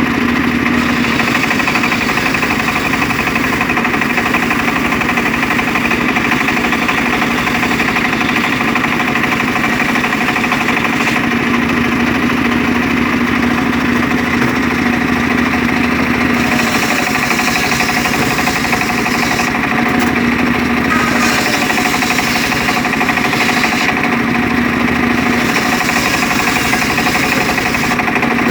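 Homemade engine-driven circular saw rig for ripping mahogany running steadily and loudly, its engine going without letting up.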